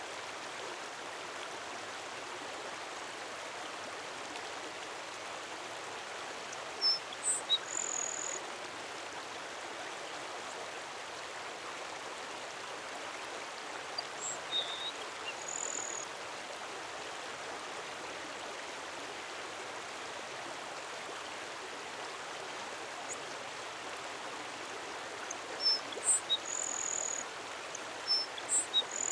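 A songbird singing a short phrase of quick, very high notes that ends in a brief held high whistle, three times about ten seconds apart, over a steady rushing background noise.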